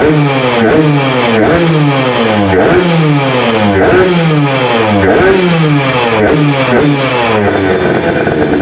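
Yamaha RX-King's 135cc two-stroke single-cylinder engine revved in quick, repeated throttle blips through a CRC x Fanterra aftermarket exhaust. The pitch swings up and down about three times every two seconds.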